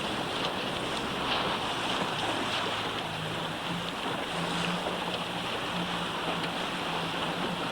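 Wind and water noise on open water: waves washing and wind buffeting the microphone, steady throughout. A faint low hum comes and goes from about three seconds in.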